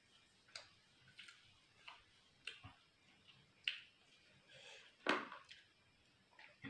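Close-miked chewing: a string of sharp, wet mouth clicks about one every half-second to second, the loudest about five seconds in.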